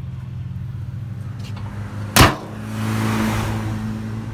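Fuel-injected four-cylinder engine of a Rover Mini Cooper idling steadily. About two seconds in comes a single loud slam, then about a second of rushing noise over the idle.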